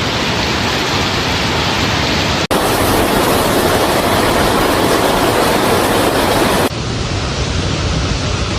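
Loud, steady rush of water. It breaks off abruptly twice: about two and a half seconds in it returns louder, and about two seconds before the end it turns quieter and duller.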